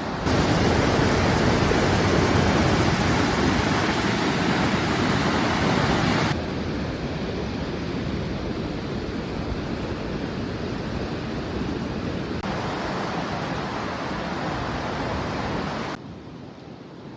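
Rushing floodwater of a swollen river: a steady, even noise of fast-flowing water. It is loudest over the first six seconds, then drops abruptly in steps and is quieter near the end.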